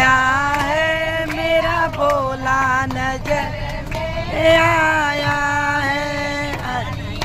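A single voice singing a melody in long held notes, with short breaks between phrases.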